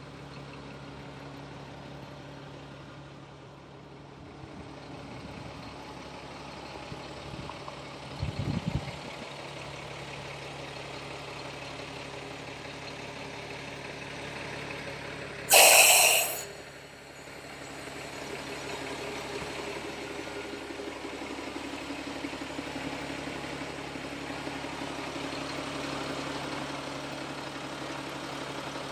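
Caterpillar 3126B turbo diesel of an M1089A1 military wrecker truck running steadily. A quick run of low thumps comes about eight seconds in, and a loud burst of hissing lasting about a second comes about halfway through.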